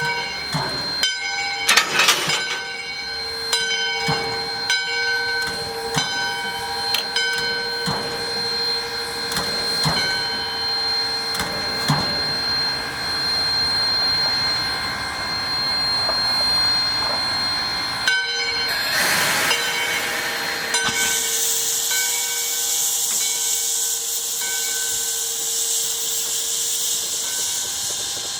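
ALCO 2-8-2 Mikado steam locomotive working slowly: exhaust chuffs come about once a second over a steady whine and then space out. A loud hiss of steam starts about twenty seconds in.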